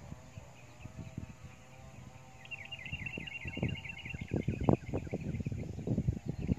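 A bird gives a rapid high trill for about two seconds, starting a little over two seconds in. Irregular thumps and rustles come from the second half on and are the loudest sounds.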